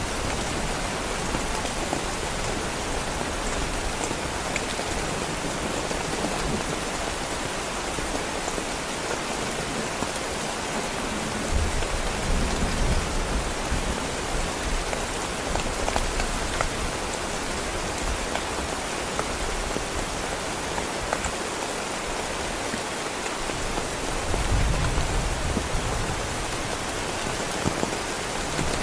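Heavy rain falling steadily on a surface, with scattered distinct drops. A low rumble swells up briefly twice, about halfway through and again near the end.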